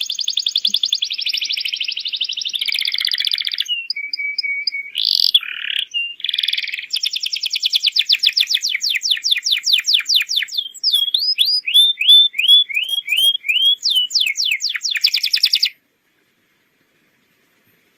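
Domestic canary singing a long rolling song of fast trills and rapid repeated notes, including a run of quick down-slurred whistles. The song cuts off suddenly near the end.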